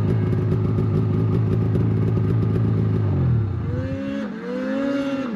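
Snowmobile engine held at steady high throttle while climbing a hill. About three seconds in, the pitch falls away as the throttle comes off. A higher, wavering engine note then takes over.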